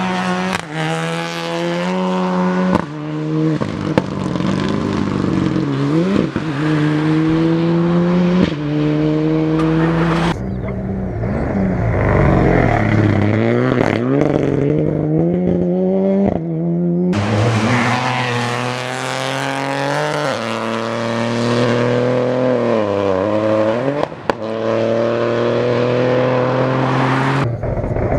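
Rally cars accelerating hard, each engine's pitch climbing through the gears with a sudden drop at every upshift, and dipping as the driver lifts off before pulling again. The sound switches abruptly to a different car three times.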